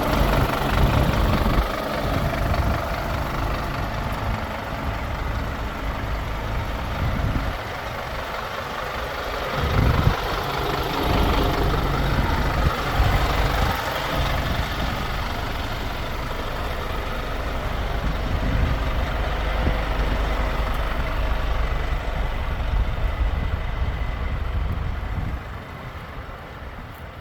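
Scania P280 truck's diesel engine running at idle, its level rising and falling a few times about a third of the way through and dropping off near the end.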